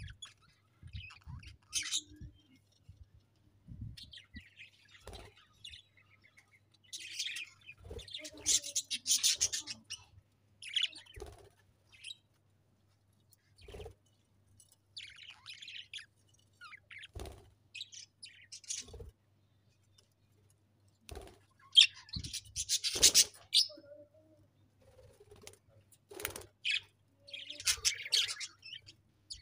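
Budgerigars chirping and chattering in bursts with quiet gaps between, the busiest flurries about a third of the way in and again about three-quarters through.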